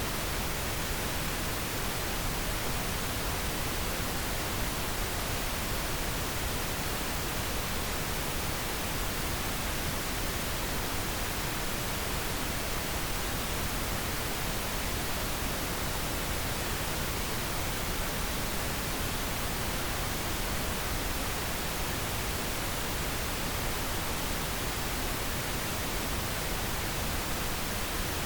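Steady pink noise: an even, unbroken hiss across the whole range, with no changes or events.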